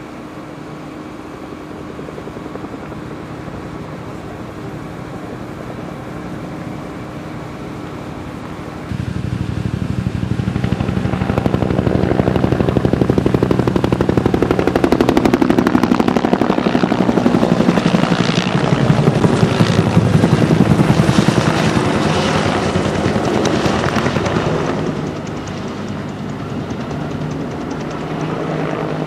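Helicopter flying close by: a steady engine drone, then from about nine seconds in a much louder, fast rotor-blade chop that swells and eases off again near the end.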